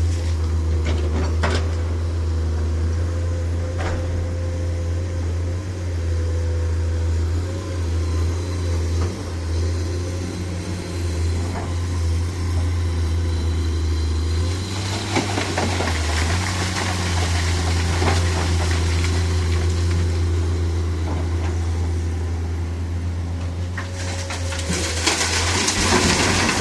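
Dump truck engine running under a heavy load with a steady low drone, with occasional knocks and rattles and a rise in road or body noise in the second half.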